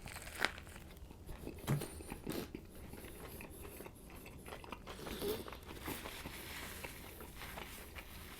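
Close-miked chewing of a bite of Subway Club sandwich, quiet mouth sounds with scattered soft clicks and crackles.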